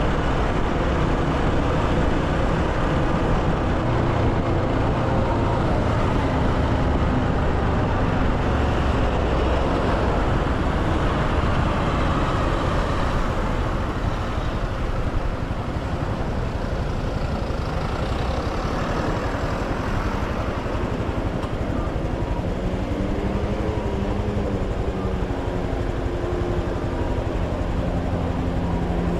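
Motorcycle running at riding speed, with steady wind and road noise. The engine's pitch rises and falls in the last several seconds.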